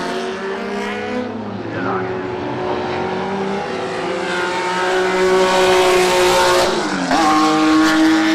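Historic sports racing car engines running hard on track. The engine note climbs steadily and drops sharply in pitch twice, about two seconds in and again near the end.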